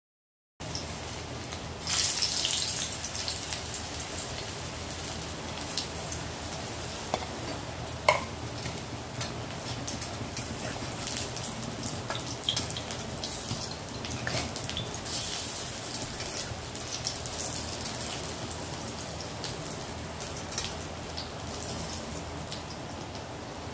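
Mung and chana dal kebabs shallow-frying in oil in a steel kadhai: a steady crackling sizzle with scattered pops. A metal spatula scrapes and taps the pan now and then, with the loudest knock about eight seconds in.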